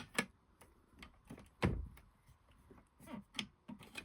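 Sewing machine parts being handled and set back in place: scattered light clicks and taps, with one heavier knock a little under two seconds in.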